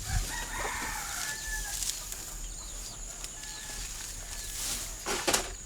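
Chickens clucking and calling, with one longer call in the first second or so. A sharp knock comes about five seconds in.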